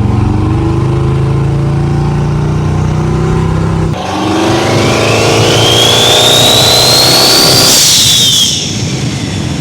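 Twin-turbo 5.3 L LS V8 running on the road. About four seconds in it pulls harder, and a turbo whistle rises steadily in pitch for about three seconds. The whistle drops away quickly as the throttle closes near the end.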